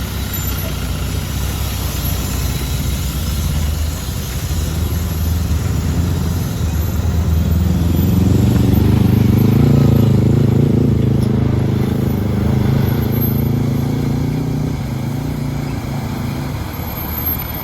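Diesel engine of an overloaded Mitsubishi Canter truck running under heavy load, a steady low rumble. It grows louder about seven seconds in, is loudest around ten seconds, then eases off near the end.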